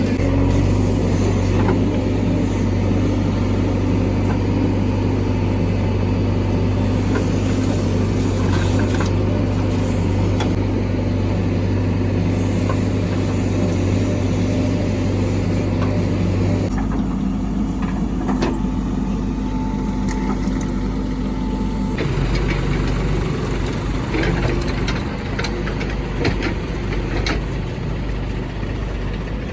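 Heavy diesel engine of earth-moving or farm machinery running steadily. Its note shifts about halfway through and again later. Occasional short clanks sound over it.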